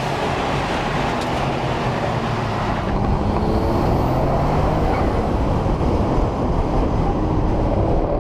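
Car interior at speed: the engine runs under load beneath a heavy, steady rumble of road and tyre noise, growing slightly louder about three seconds in.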